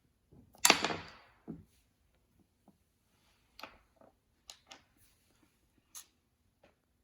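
Handling noises: one louder scraping or rustling sound about half a second in that fades over most of a second, followed by a scattering of short, soft clicks and taps.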